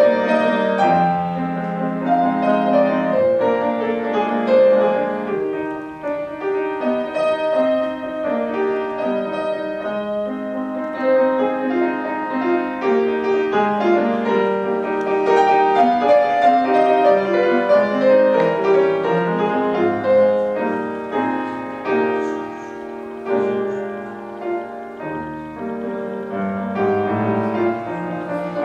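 Solo piano playing a flowing classical piece, a melody over continuous accompaniment notes.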